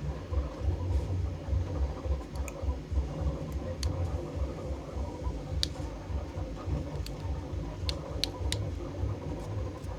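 A 3D printer running with a low, quickly pulsing hum. A few sharp clicks and scratches of vinyl being picked and peeled by hand come over it, several of them close together near the end.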